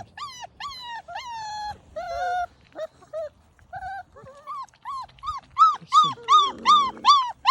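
Almost four-week-old giant guardian-breed puppy (Boerboel–Kangal cross) yelping and whining over and over in high, rising-and-falling cries. There are a few longer drawn-out whines about a second in, and a quicker run of loud yelps, about three a second, over the last couple of seconds.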